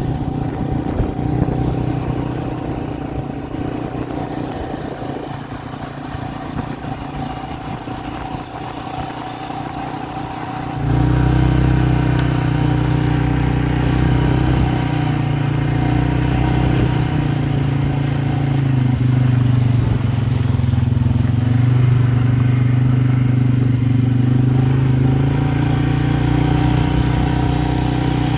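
A motor vehicle's engine running, with a steady low hum. It gets suddenly louder about eleven seconds in and then holds an even pitch.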